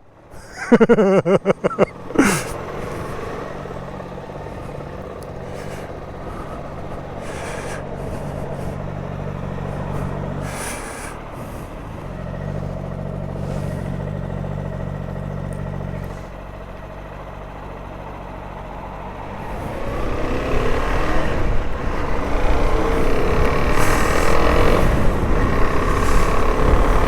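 Suzuki DR-Z400S single-cylinder engine idling steadily with a low hum, after a few brief loud sounds at the start. From about 20 seconds in the sound grows louder and noisier as the bike moves off, engine and rushing air together.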